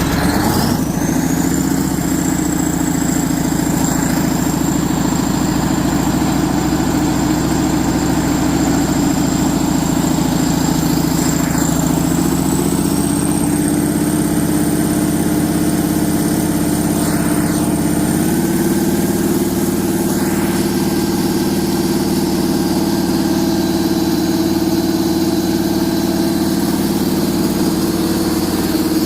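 Doosan 530-horsepower marine diesel engine on a test run, revving up from idle at the start and then held at a raised speed, stepping up in pitch twice more, about twelve and about eighteen seconds in. A high whine rises along with the engine.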